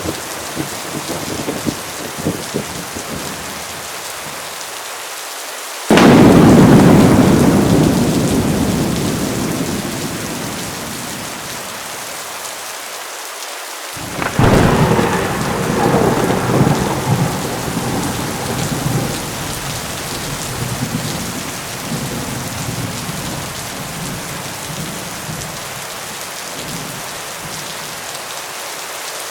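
Heavy rain pouring steadily in a thunderstorm. A sudden thunderclap cracks about six seconds in and rumbles away over several seconds, and a second clap about halfway through rolls on and slowly dies away.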